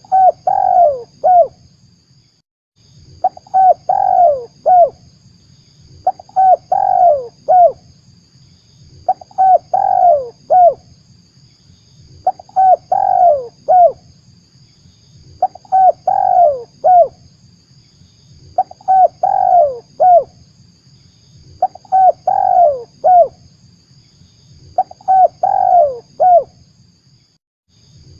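Spotted dove (tekukur) cooing from a lure-call recording: the same short phrase of several falling coos repeats about every three seconds. A faint steady hiss under the calls drops out briefly about two seconds in and again near the end.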